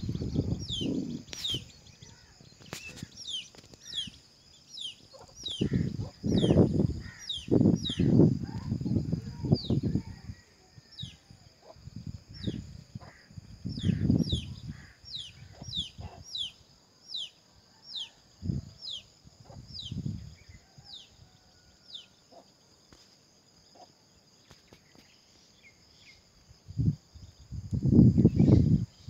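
A bird calls over and over with short, falling, high chirps, about one or two a second, which die away after about twenty seconds. Gusts of wind buffet the microphone every so often and are the loudest sound, and a faint steady high tone sits underneath.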